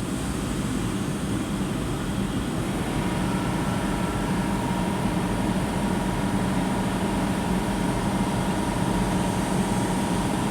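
Spray booth ventilation and extraction fans running: a steady rush of air with a low hum. A faint, steady higher whine joins it about three seconds in.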